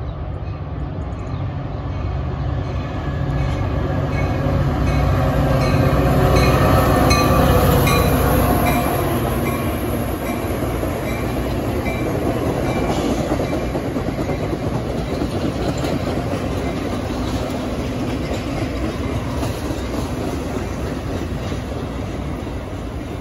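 Metra diesel-hauled commuter train passing at speed, led by its locomotive. The engine drone and a falling whine swell to a peak as the locomotive goes by, with regular wheel clicks over the rail joints. After that the bilevel passenger cars keep rolling past with a steady rushing rumble.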